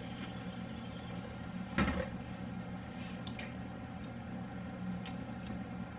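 Containers and kitchen items being handled on a counter: one clunk about two seconds in and a few light clicks, over a steady low hum.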